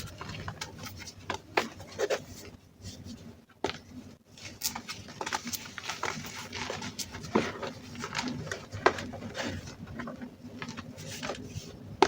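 Reformed gym chalk being crushed, crunching and crumbling into powder with many irregular crisp crackles.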